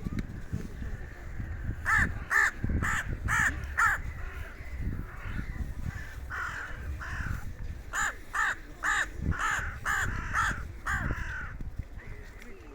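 Crows cawing in a repeated string: a quick run of about five caws, then after a short gap a longer series of caws. A low rumble runs underneath.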